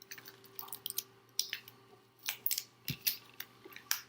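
A scattered series of light, sharp clicks and taps, about a dozen: a picture card being handled and set down on the sorting board. A faint steady hum runs underneath.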